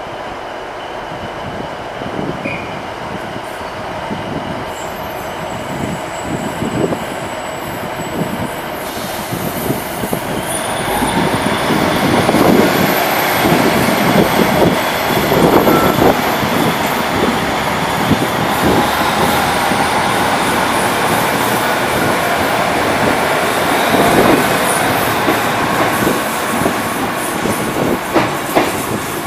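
Class 390 Pendolino electric multiple unit pulling out of the station and rolling past coach by coach, a steady running noise with repeated wheel knocks over the track. It grows louder about ten to twelve seconds in and stays loud.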